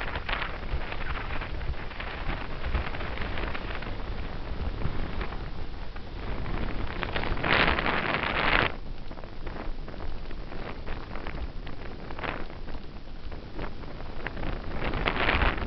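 Wind buffeting a helmet-mounted camera's microphone as a bicycle coasts downhill, a steady rushing with low rumble that swells sharply for about a second halfway through and again near the end.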